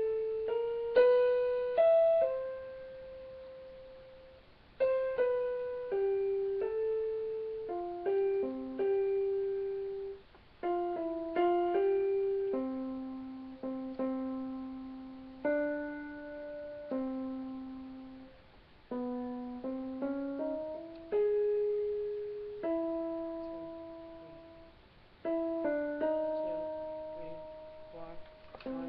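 Piano playing a slow single-line melody note by note, each note struck and left to ring and fade: a choir's vocal part being plunked out for rehearsal.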